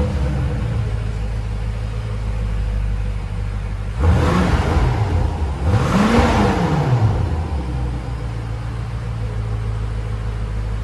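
BMW X6 M Competition's twin-turbo V8 idling through a Fi EXHAUST valvetronic catback with the valves closed. It is revved twice, about four and six seconds in, the second rev going higher, and each time it falls back to idle.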